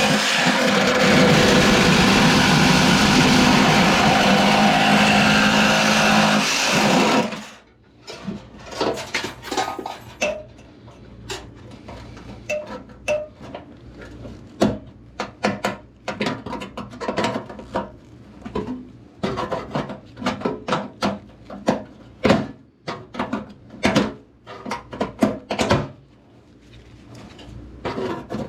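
A power tool runs steadily on sheet-metal work for about seven seconds, then shuts off. It is followed by a long run of irregular light taps and knocks of metal being handled and worked.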